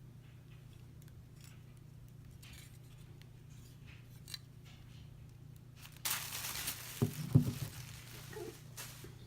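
Packaging being handled: a few faint clicks at first, then about six seconds in, loud crinkling and tearing of the ornament's box and wrapping as the ornament is taken out, with sharper tears about a second later.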